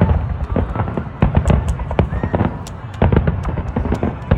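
Aerial fireworks bursting: several deep booms, with dense crackling from the shells in between.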